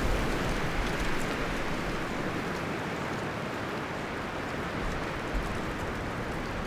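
Wind blowing through forest trees, a steady rustling of leaves and branches, with a stronger gust easing off over the first couple of seconds.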